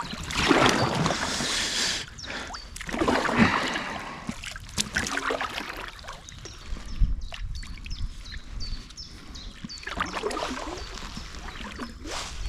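Kayak paddle strokes splashing and swishing through canal water, coming in surges a few seconds apart.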